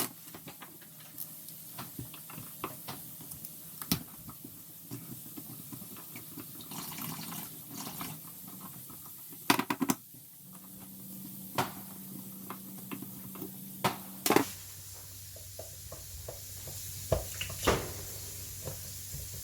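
Scattered small clicks and knocks of hands and tools on a kitchen mixer tap's metal handle and cap as they are worked off to reach the ceramic gland. There are a few louder clattering knocks about ten seconds in and again near fourteen seconds.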